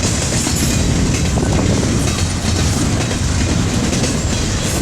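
Freight train rolling past, its cars' steel wheels running steadily over the rails.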